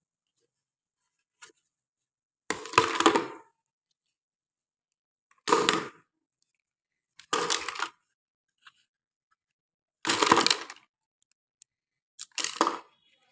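Plastic packaging crinkling and tearing in five short crackly bursts, a couple of seconds apart.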